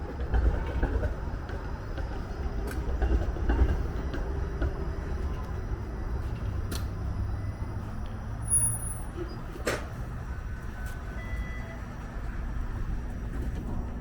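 Streetcar pulling away, a low rumble with a few sharp clicks and a brief faint high squeal about two-thirds of the way through.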